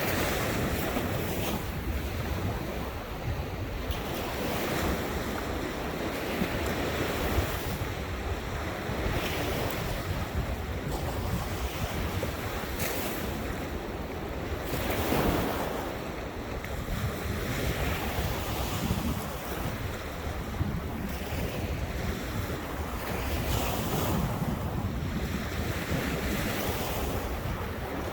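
Ocean surf breaking and washing ashore, swelling and easing every few seconds, with wind buffeting the microphone as a low rumble.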